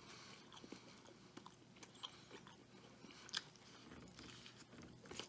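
Faint close-up chewing of a bacon cheeseburger (a Wendy's Triple Baconator), with small wet mouth clicks and a sharper click as he bites into the burger again a little past halfway.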